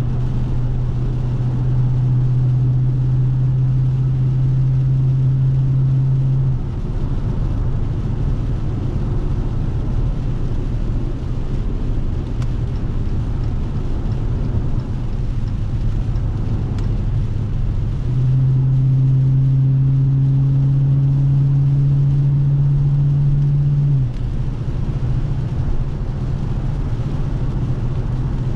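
Dodge Scat Pack's 392 (6.4-litre) HEMI V8 driving at cruise: a steady exhaust drone holds for about the first six seconds, gives way to a looser rumble, then returns from about 18 to 24 seconds before dropping back.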